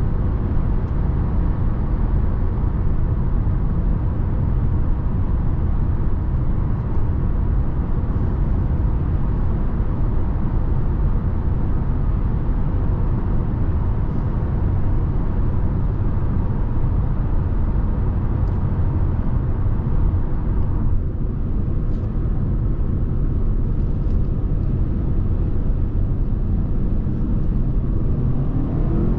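Steady road and tyre noise with a low rumble from a Lexus NX 300h hybrid SUV cruising at motorway speed. The hiss thins slightly about two-thirds of the way through.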